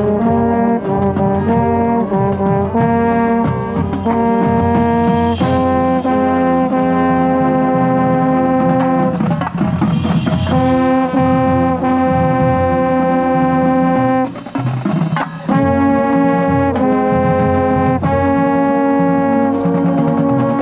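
Marching band brass playing loud, close up, with a trombone/baritone part prominent: short detached notes for the first few seconds, then long held chords, with a brief break about fourteen seconds in.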